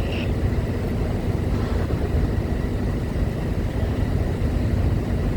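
Steady low rumble of heavy diesel engines, trucks and vehicles boarding a ferry at the loading ramp, with no change in pitch or level.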